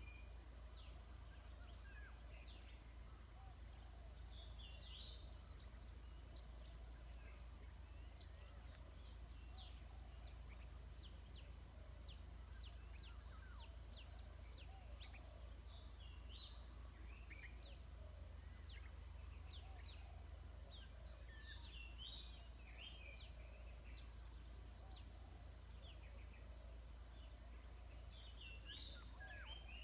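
Faint bird calls: short high chirping phrases recur every five or six seconds, and a run of quick falling notes, about two a second, sounds in the middle. Behind them runs a steady high insect drone.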